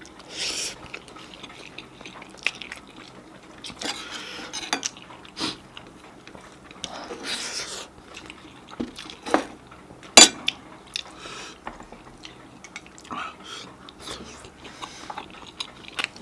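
Cutlery clinking against plates and bowls while eating, scattered irregular clicks with the sharpest one about ten seconds in, and a few short soft noisy stretches between them.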